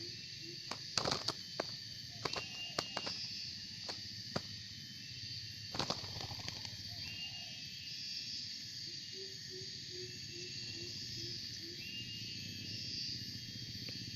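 Forest ambience with insects droning steadily and small birds chirping; a series of sharp clicks and knocks sounds in the first half, the loudest about six seconds in, and near the middle a bird gives a run of about eight low, evenly spaced hooting notes.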